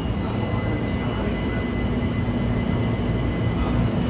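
A train running on the rails: a steady low rumble with a steady hum joining in part way through.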